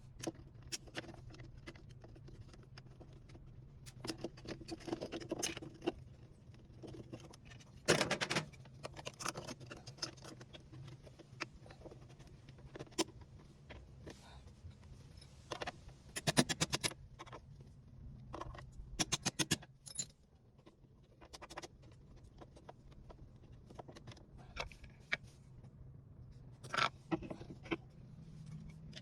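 Hand work on a Whirlpool washing machine during a part replacement: irregular clicks, knocks and metallic jangling rattles of tools and parts, with a few louder clusters, over a faint low steady hum.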